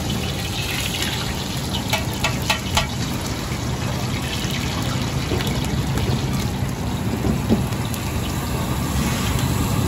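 Egg frying in a pool of oil on a large flat iron tawa, sizzling steadily over a low hum. A metal spatula clicks against the griddle a few times about two to three seconds in.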